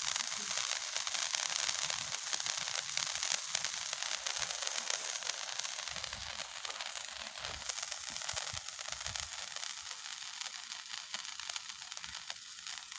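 A burning firework hissing and crackling steadily, gradually dying down toward the end.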